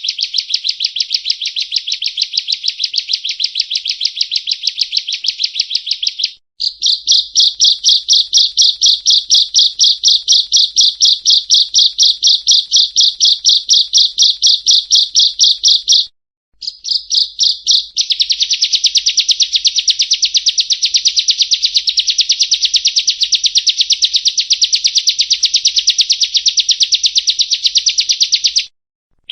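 Bar-winged prinia (ciblek kristal) singing its rapid-fire 'nembak' song: long runs of fast, evenly repeated high chip notes. The runs are broken by brief pauses three times.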